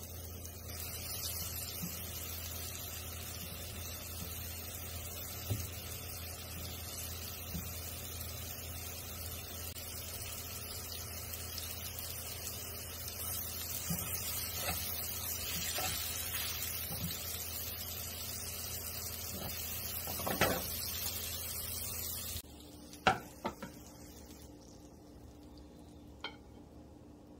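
Flour-coated ground-beef ćufte frying in shallow oil in a non-stick pan: a steady sizzle with occasional clicks of a utensil. About three-quarters of the way through, the sizzle stops. A few sharp clacks follow as tongs move the meat rolls into a clay baking dish.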